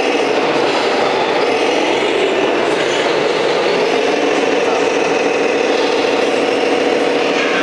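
Tamiya radio-controlled Scania truck model running, a steady mechanical drone with a held mid-pitched tone.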